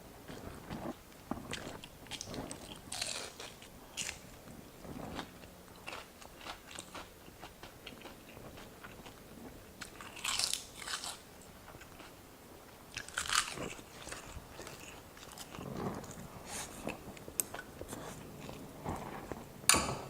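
A person chewing and crunching food during a mukbang: irregular crisp bites and mouth sounds, with denser bursts of crunching about 3, 10 and 13 seconds in and again near the end.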